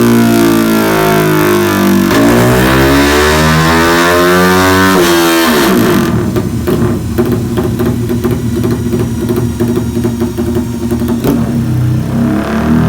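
Motorcycle engine running on a dyno through an aftermarket exhaust. The pitch climbs for about three seconds, drops sharply about five seconds in, then runs rough and choppy with a rapid crackle before it starts rising again near the end.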